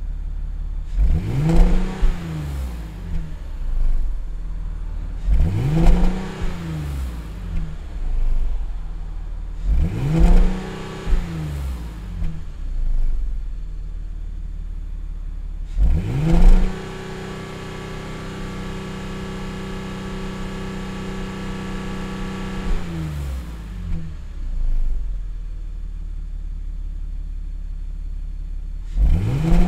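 2008 Audi A5's 3.2-litre V6 engine revved from idle: three quick blips that rise and fall, then a rev held steady for about six seconds before dropping back to idle, and another blip near the end.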